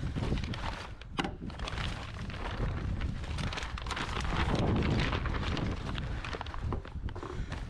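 Gusty wind buffeting the microphone with a heavy low rumble, mixed with the crinkling and flapping of plastic vapour-barrier sheeting.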